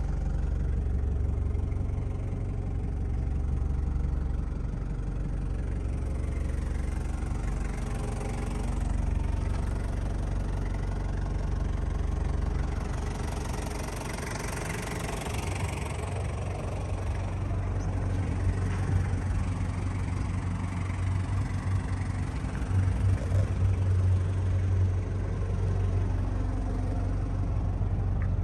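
Toyota Hiace's 1KZ-TE 3.0-litre four-cylinder turbo diesel engine running steadily, its low drone growing louder in the second half.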